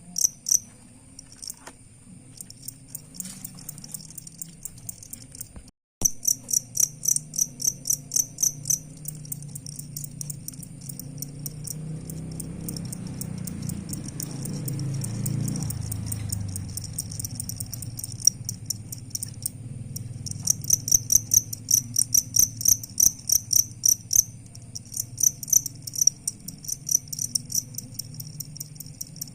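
Crickets chirping: bouts of short, high, evenly repeated chirps, about four a second, over a steady high trill. The sound cuts out completely for a moment about six seconds in.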